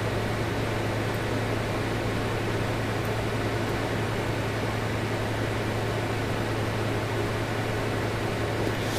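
Steady low hum under a constant even hiss, with no distinct events: background room or equipment noise.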